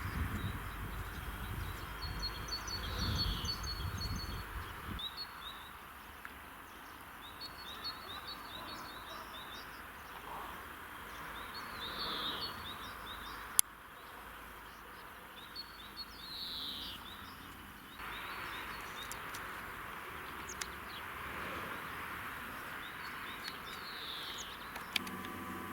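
Wild songbirds singing outdoors: scattered high chirps and a short downward-sliding call repeated every four to five seconds over steady background hiss. A low rumble runs through the first few seconds, and there is one sharp click about halfway.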